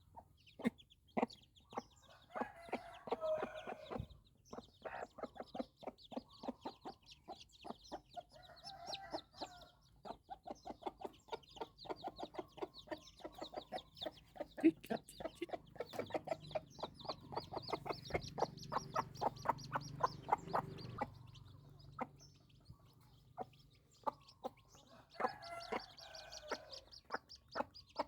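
Chickens clucking, with clusters of low calls and long runs of short, quick repeated clucks or clicks, densest in the middle.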